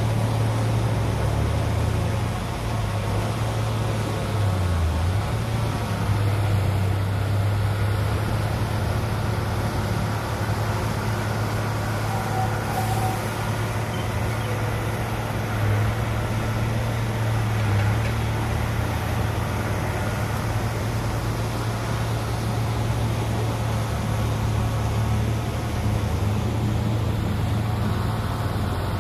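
Heavy-machinery diesel engine running steadily with a deep, even hum.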